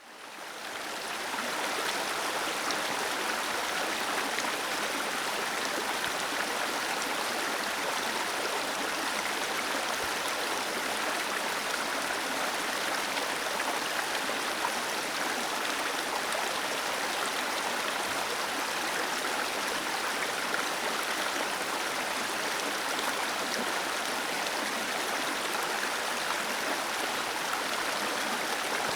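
Waterfall cascading: a steady, even rush of falling water, fading in over the first second or so.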